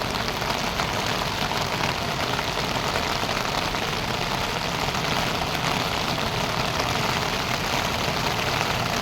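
Steady rush of heavy rain and water, an even hiss with a low rumble beneath it.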